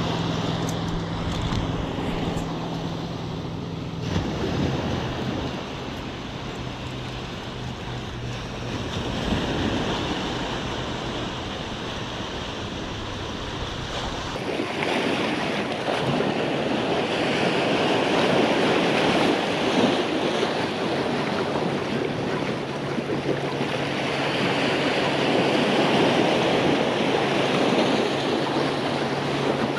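Surf breaking and washing over rocks, with wind rumbling on the microphone. The wash swells louder about halfway through and again near the end.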